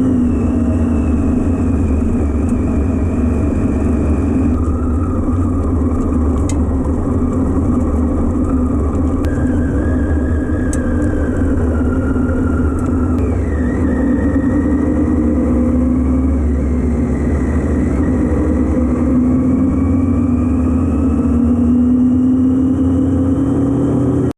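Motorcycle engine running under way at a fairly steady speed, its note dipping slightly and rising again toward the end, over a constant low rumble. The sound cuts off suddenly at the end.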